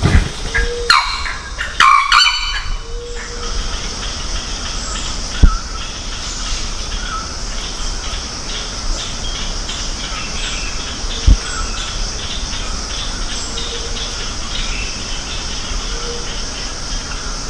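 A Sri Lanka junglefowl rooster crowing, a loud broken call about a second in that lasts around two seconds, over a steady high buzz of insects. Two short low thumps come later.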